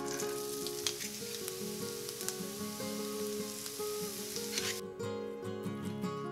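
Diced onion frying in butter in a pan, a steady sizzle with a few sharp knocks as it is stirred with a wooden spoon. The sizzle cuts off suddenly about three-quarters of the way through, leaving soft plucked-string background music.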